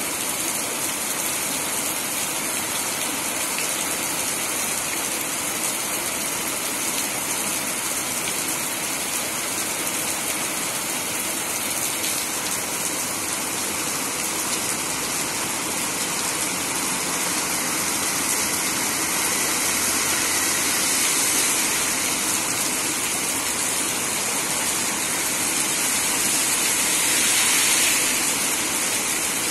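Heavy typhoon rain pouring down in a steady hiss, swelling a little about two-thirds through and again near the end.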